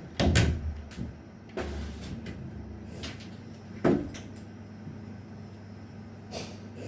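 A few dull bumps and knocks: a loud bump right at the start, a softer one about a second and a half in, and a sharp knock about four seconds in, over a faint steady low hum.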